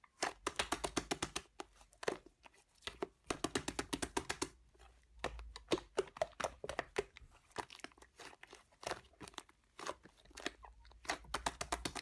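Slime being squeezed and pressed by hand, with rapid runs of small crackling pops and clicks from trapped air bubbles and sparser single pops in between.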